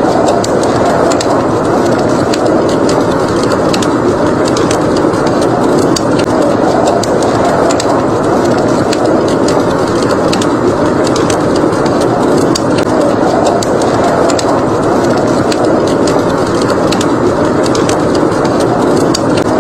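Blizzard wind blowing steadily, swelling and easing slowly, with the frequent sharp crackles of a wood fire burning in a fireplace over it.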